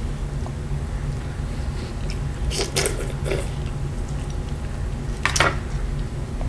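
Close-up eating sounds: biting into and chewing peeled shrimp, with short wet, smacking bursts about two and a half seconds in and again about five seconds in. A steady low hum runs underneath.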